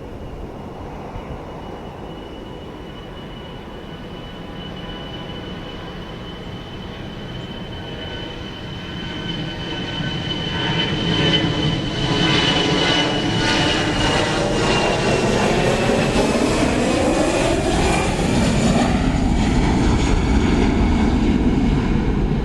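Airliner's engines passing close by: a high whine and a rumble build up, then several tones fall in pitch as the aircraft goes past, and a deep rumble stays loud near the end.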